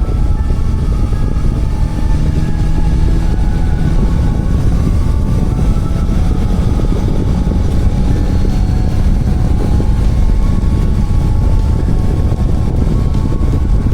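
Motorcycle engine running steadily while riding, under a heavy, constant low rumble of wind on the microphone.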